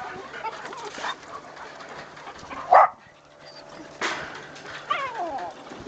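Dogs barking and yelping while playing, with one short loud yelp near the middle and a whining cry that falls in pitch near the end.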